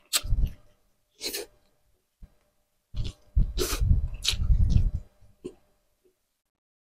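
Close-up mouth sounds of eating grilled tuna jowl and rice by hand: wet chewing and lip smacking in short bursts, with a longer run of chewing about three seconds in.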